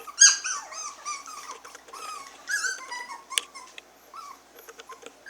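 Six-week-old Havanese puppies whimpering and yipping: many short, high-pitched squeaky whines in quick succession, with a sharp click about three and a half seconds in.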